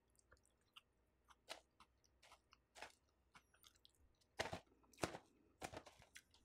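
Faint close-miked chewing of food: scattered short mouth clicks and smacks, with a few louder ones about four and a half to six seconds in.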